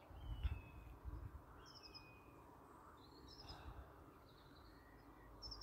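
Faint birdsong: a few short, scattered high chirps and whistles from small birds over a low background rumble.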